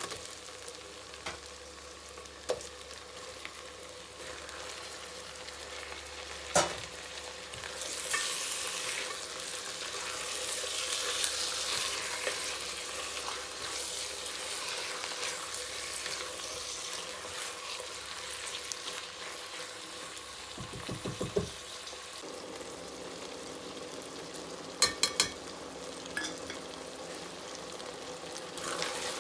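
Food sizzling in hot oil in a pan while it is stirred, the sizzle growing louder after the first several seconds. A utensil knocks against the pan now and then, including a quick run of knocks past the middle and three sharp clicks near the end.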